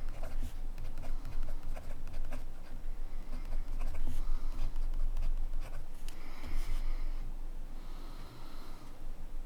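Montblanc Meisterstück 144 fountain pen nib writing on paper: quick short scratches and ticks, then several longer drawn strokes in the second half.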